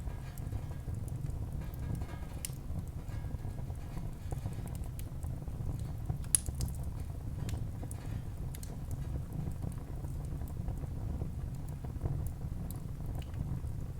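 Wood fire burning in a fireplace: a steady low rumble of flames with irregular crackles, and one louder pop about six seconds in.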